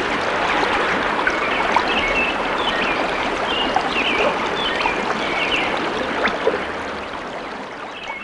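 Steady rushing water, like a stream, with short high chirps over it; it fades out near the end.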